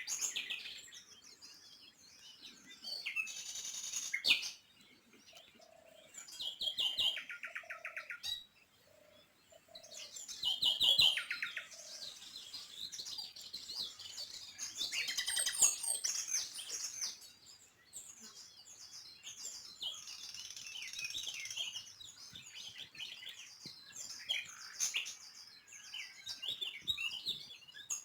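Small birds chirping and trilling, with many short, quickly repeated calls, some overlapping.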